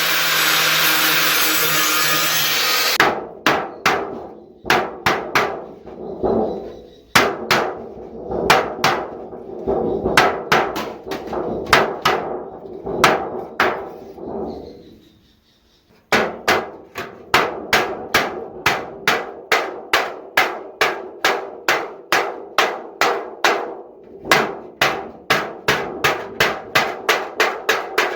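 A power tool, likely the disc grinder used on the can, runs with a steady rasping noise and stops about three seconds in. Then a hammer strikes sheet metal over and over, each blow ringing. The blows are uneven at first, then settle into a steady beat of two to three a second.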